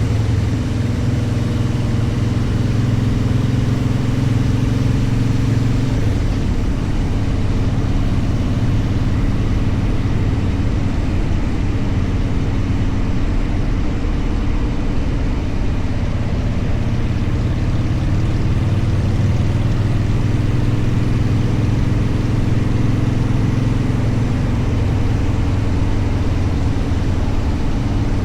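Motorcycle engine running at a steady note, mixed with constant wind and road noise. The note blurs and wavers for several seconds about six seconds in, then settles steady again.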